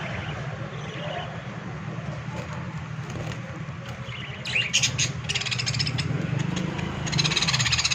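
Birds chattering in two bursts of rapid high chirps, one around the middle and a louder one near the end, over a steady low hum.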